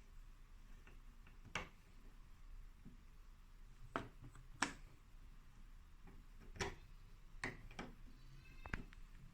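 Faint, scattered sharp clicks and knocks, about seven at uneven intervals, with a brief faint squeak near the end, over a low steady hum.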